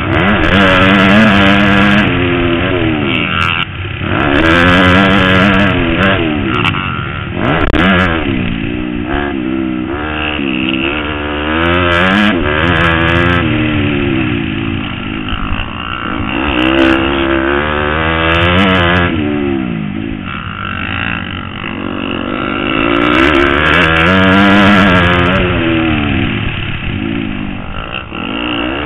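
Motocross bike engine running hard, its pitch climbing and dropping back again and again as the throttle is opened and closed.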